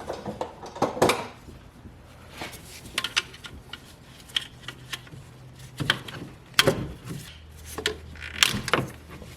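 Hand tools and engine-bay parts clicking, scraping and knocking as the alternator's positive cable and its plastic clip are undone, with a few sharper metallic knocks among the lighter clicks.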